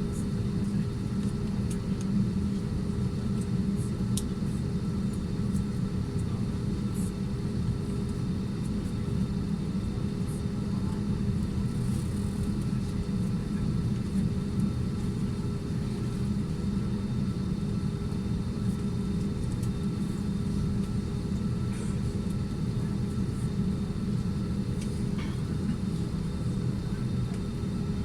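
Steady low hum of a parked airliner's cabin before departure, with a few faint steady tones above the rumble.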